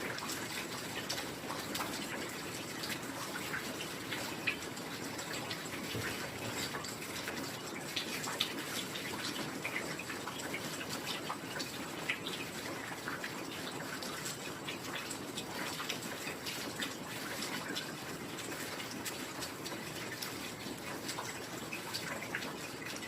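Heavy rain falling steadily: a dense, even hiss dotted with many sharp ticks of single drops.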